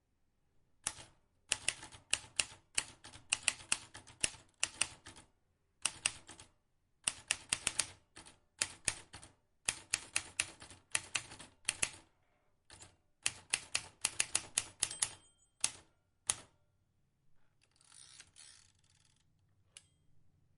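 Vintage manual typewriter being typed on: quick runs of sharp key strikes in bursts, separated by short pauses. Near the end the clicks stop and give way to a softer, drawn-out scraping sound, then one last click.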